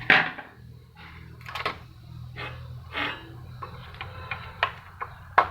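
Clicks, knocks and scrapes of plastic and metal parts being handled as a Gprinter GP-C80250 Plus receipt printer is taken apart, over a steady low hum. The sharpest knocks come at the very start and just before the end.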